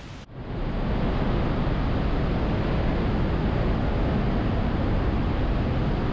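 Glacier waterfall inside a mountain cave: loud, steady rushing of falling water, heaviest in the low end. It comes in suddenly just after the start, replacing a quieter hiss.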